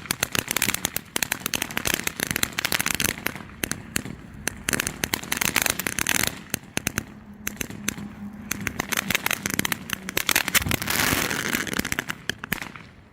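Red Lantern 'Steam Locomotive' ground fountain firework crackling with a dense run of rapid pops over a hiss, which swells about eleven seconds in and then cuts off sharply near the end as the effect burns out.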